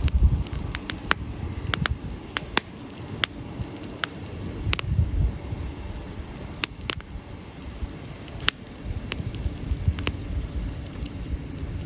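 Wood campfire burning and crackling, with sharp pops at irregular intervals over a low, uneven rumble.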